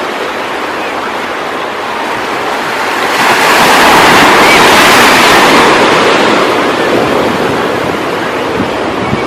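Ocean surf: a wave breaks and rushes in, the sound building about three seconds in, loudest for a few seconds, then easing off, over steady wind.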